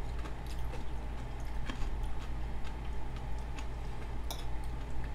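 A person chewing a mouthful of food, with scattered sharp mouth clicks, the clearest about two seconds in and again past four seconds, over a steady low hum.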